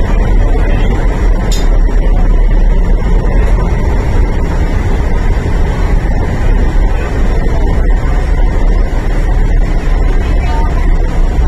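Steady rumble and wheel-on-rail noise inside a carriage of an MTR East Rail Line R-Train running at speed.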